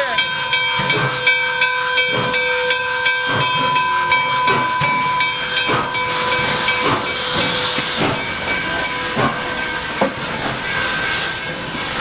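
Nickel Plate Road 765, a 2-8-4 Berkshire steam locomotive, hissing steam, with a steady multi-note tone that fades out about four seconds in and soft thumps about once a second.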